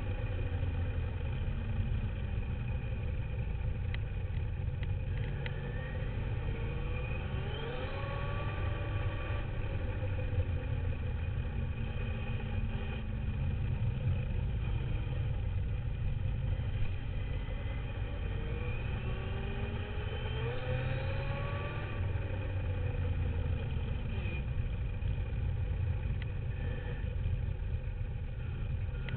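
Radio-controlled dirt bike's motor heard from on board, its pitch rising and falling again and again as the throttle is worked. Under it runs a steady low rumble of the bike running over the ground.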